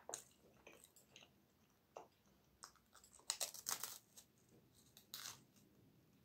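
A person biting into and crunching a dry, crumbly square biscuit, with faint crisp crunches scattered through, the loudest a little past three seconds in and again near five seconds.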